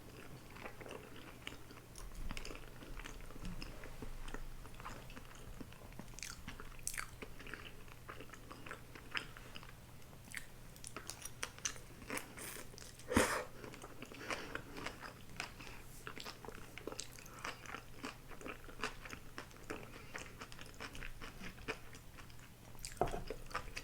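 Close-up eating sounds of grilled eel rice bowl being chewed: a run of soft wet mouth clicks and crunches, with one louder crunch about 13 seconds in.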